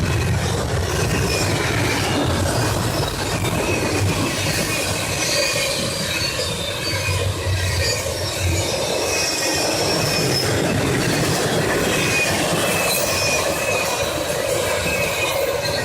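CSX intermodal freight train rolling past at close range: steady rush of wheels on rail with high wheel squeal and clickety-clack of the cars. A low rumble under it drops away about halfway through.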